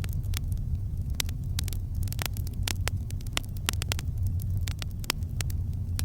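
Campfire burning: irregular crackles and pops of burning wood, several a second, over a steady low rumble.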